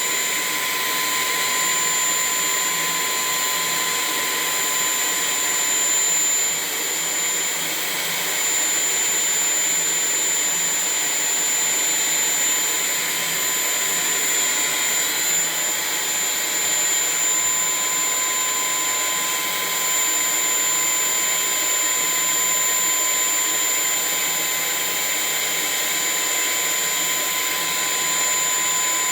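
Vacuum cleaner running steadily: an even rushing of air with a high, thin motor whine over it.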